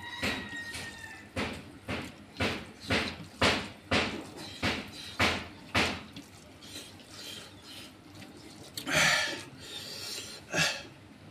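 A person chewing a mouthful of rice and pork close to the microphone, wet smacking chews about twice a second that fade after about six seconds. A louder, longer noise comes about nine seconds in, with one more short one near the end.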